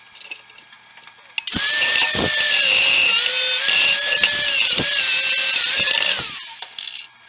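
Handheld electric power tool, likely an angle grinder, starting up and worked against steel for about five seconds, its whine dipping in pitch each time it is pressed under load, then spinning down.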